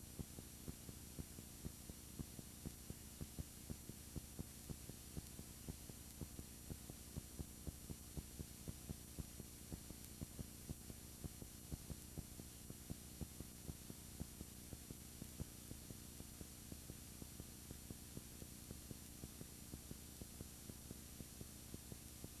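Steady electrical hum and hiss with a faint regular ticking, about three ticks a second, and no other sound recorded: the noise floor of a broken camera's audio.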